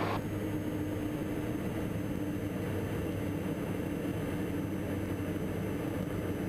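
Steady drone of the Diamond DA42 NG's two Austro AE300 turbo-diesel engines running in flight, an even hum with no change in pitch.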